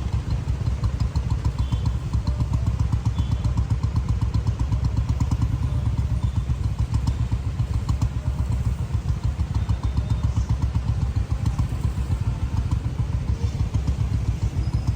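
Motorcycle engine running steadily, with a rapid low pulsing throughout.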